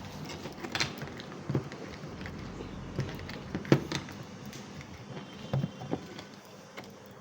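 Irregular light clicks and knocks of a motorcycle helmet being handled, the sharpest about three and a half seconds in.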